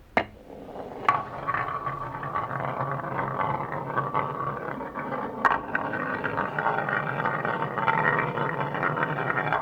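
Marbles rolling along a marble run track: a steady rolling rumble full of small clicks, with a few sharper clacks, one right at the start, one about a second in and one about halfway.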